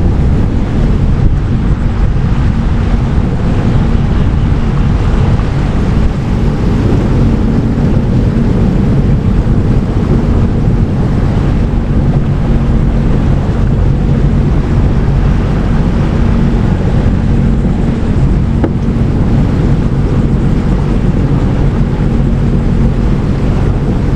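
Jet ski engine running steadily, a low drone under the rush of water and wind buffeting the microphone.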